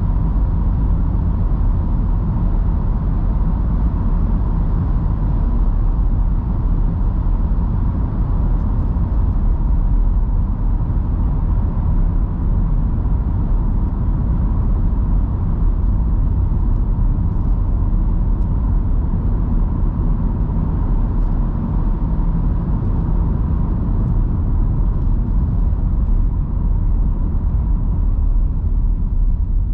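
Steady low road rumble and tyre noise from a car driving on wet roads in heavy rain, with a faint steady hum above it.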